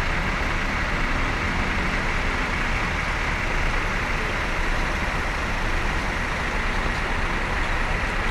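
Large diesel bus engine running steadily close by, a low rumble with a steady high-pitched whine over it.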